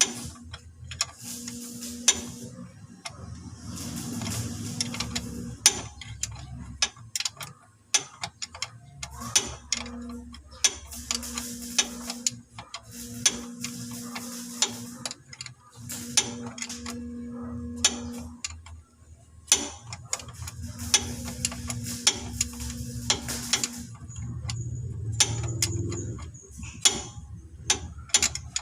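Socket ratchet wrench clicking in repeated quick runs, with sharp clinks and knocks of metal tools, as bolts are worked loose to take off the starter motor. A low steady hum comes and goes behind it.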